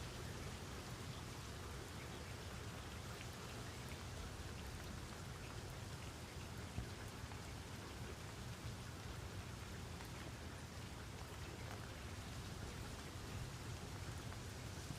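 Steady rain falling, with a continuous hiss and many small drop patters on a surface and a low rumble beneath.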